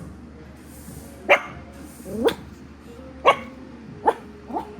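Toy poodle puppy giving five short, sharp barks about a second apart, a little alarm bark from a dog scared of a noise.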